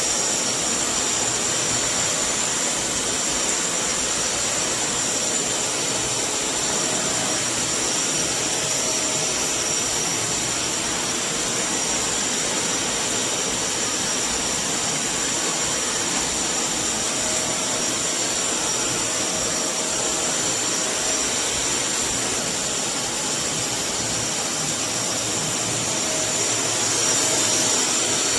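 Kärcher WD 6 P S wet-and-dry vacuum cleaner running steadily, its 1300 W motor giving a rushing airflow noise with a high, steady whine.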